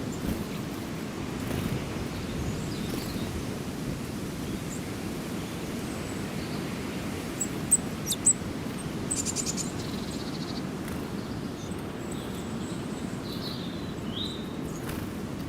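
Small birds chirping sparsely: a few sharp, high chirps about halfway through, followed by a short rapid trill, and a couple more calls near the end. Under them runs a steady low rumble of background noise.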